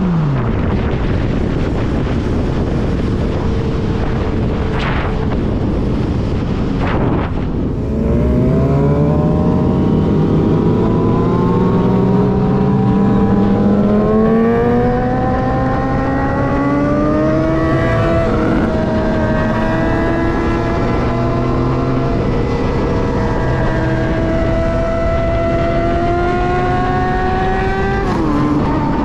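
Yamaha FZ-09's 847 cc inline-three engine under way, its pitch falling right at the start, then climbing slowly over long stretches with brief drops about a quarter of the way in, about two-thirds of the way in and near the end. A steady rushing noise runs underneath.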